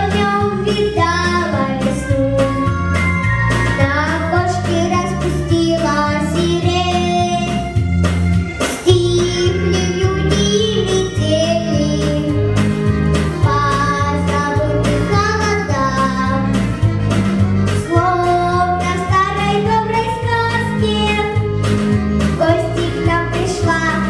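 A young girl singing solo over a recorded backing track with a steady, pulsing bass beat.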